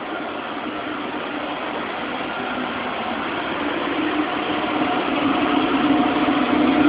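Apartment air-conditioning blower running: a steady rush of air with a low hum, growing gradually louder.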